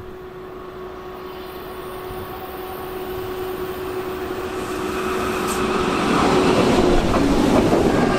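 Train approaching through a station, growing steadily louder for about six seconds, then passing close by with loud, steady wheel-and-rail noise.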